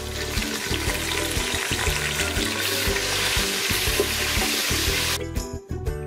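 Ground shallot paste sizzling in hot oil with browned sliced onions in a pan. The sizzle stops abruptly about five seconds in. Background music with a steady beat plays underneath.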